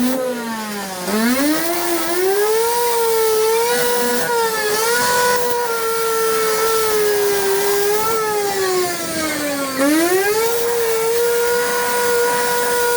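High-speed power tool motor whining steadily, its pitch dropping sharply as it bogs under load about a second in and again near ten seconds, then climbing back to speed.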